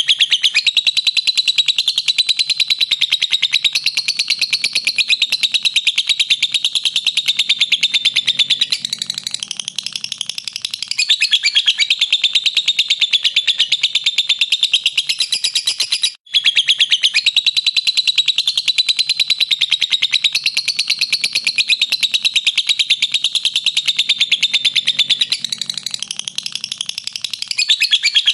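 Lovebird's long 'ngekek' chatter: a very fast, unbroken string of high, shrill chirps that goes on and on, easing off briefly twice and cutting out for an instant about two-thirds of the way through.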